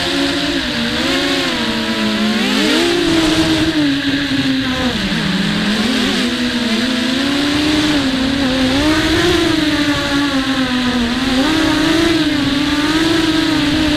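Quadcopter's four brushless motors (RCX 1306 2300kV) spinning 5030 propellers, heard from the onboard camera: a buzzing whine whose pitch rises and falls continuously with throttle, dipping lowest about five seconds in. Wind rumbles on the microphone underneath.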